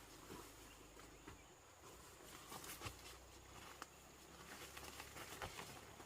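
Near silence: faint outdoor ambience with scattered light clicks and ticks over a steady, thin high hum.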